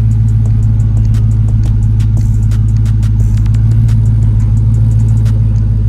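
Dodge Charger Scat Pack's 6.4-litre 392 HEMI V8 idling steadily through its stock exhaust, a low even drone with no revving.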